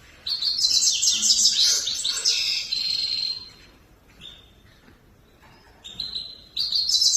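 Grey-headed goldfinch singing: a loud, rapid twittering phrase of about three seconds, a few short notes, then a second burst of song near the end.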